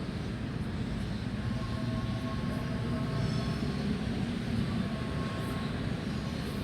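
Steady low rumble of motor traffic, swelling a little around the middle, with faint thin tones above it.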